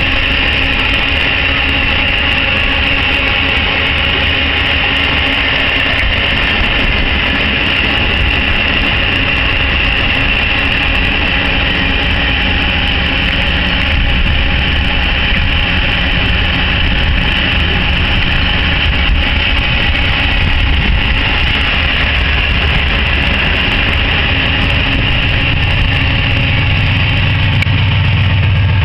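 Iron-ore train's gondola cars rolling past on the rails, a steady rumble of wheels and cars. Over the last few seconds the low drone of a mid-train diesel locomotive grows louder as it comes alongside.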